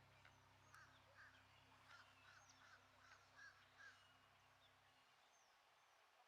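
Faint bird calls: a quick series of about eight short notes in the first four seconds, over a low steady hum that stops about five seconds in.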